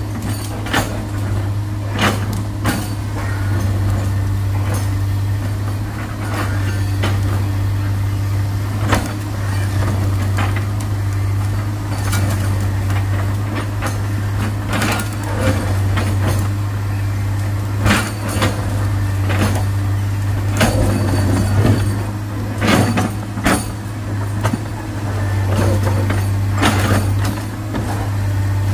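Heavy diesel engine running steadily with a deep drone, with sharp knocks and clanks scattered irregularly over it.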